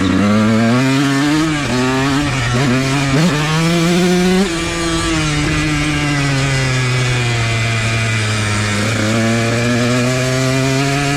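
Dirt bike engine running under throttle while riding a motocross track. The revs climb and fall several times in the first few seconds as it shifts gears. It then holds a steadier, slowly falling pitch and picks up again near the end.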